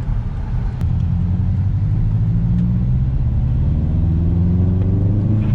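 Subaru WRX's turbocharged flat-four engine pulling under acceleration through its freshly replaced clutch. It gets louder about a second in, then its pitch climbs steadily as it revs up.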